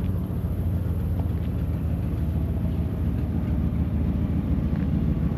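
Ford 460 big-block V8 in an RV idling steadily, a low, even rumble with a quick pulsing beat; the engine has an exhaust manifold leak.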